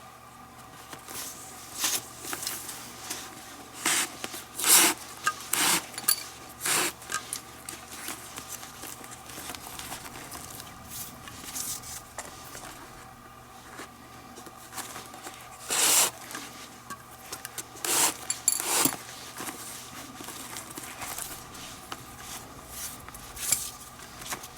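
Leather lace being pulled through the lacing holes of a baseball glove: irregular rubbing and zipping pulls, with bunches of quick strokes about 2 seconds in, between 4 and 7 seconds, and again around 16 and 19 seconds.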